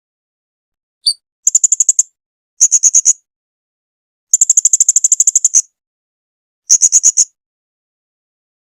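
Blue-crowned hanging parrot (serindit) calling: a short single note about a second in, then four bursts of rapid, high-pitched chips, the longest over a second.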